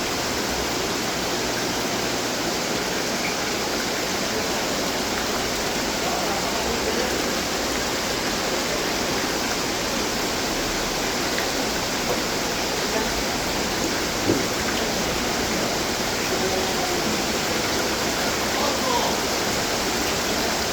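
Running water from garden fountains splashing and trickling, a steady even rush. Faint voices are heard in places.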